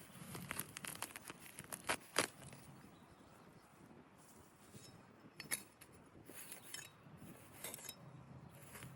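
Scattered light clinks and taps of hard objects: a bunch in the first couple of seconds, the loudest just past two seconds in, then a few more around five and a half and near eight seconds.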